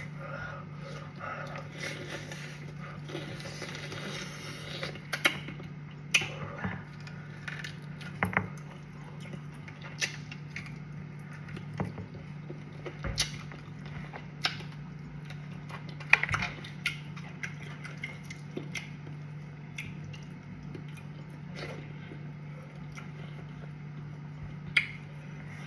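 Eating sounds: mouth smacks and chewing with scattered sharp clicks every second or two, over a steady low hum.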